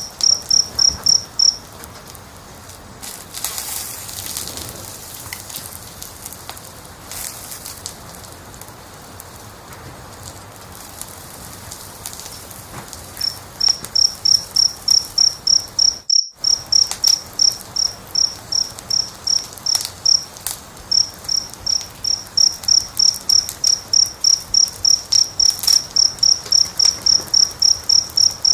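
A cricket chirps in a steady, high-pitched pulse train of about four chirps a second. It stops a little over a second in and starts again about halfway through. In the quieter stretch between, a wood fire crackles with scattered soft pops, and just past the middle all sound cuts out for a split second.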